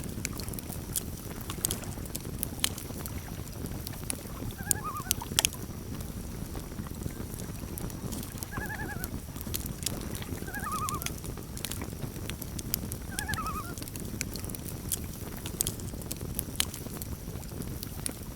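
Campfire crackling, with frequent sharp pops over a steady low rumble. Common loons give four short, wavering tremolo calls across the middle of the stretch.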